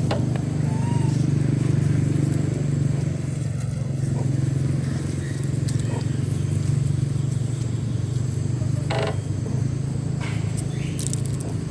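Motorbike engine running steadily with a low, even hum.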